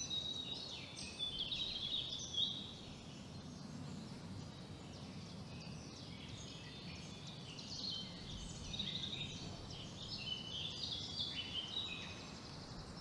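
Birds chirping, a dense chatter of many short high notes, over a faint low steady background noise.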